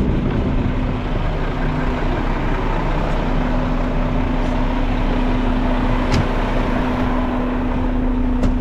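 Garbage truck's diesel engine running steadily with a constant hum, and a single sharp click about six seconds in.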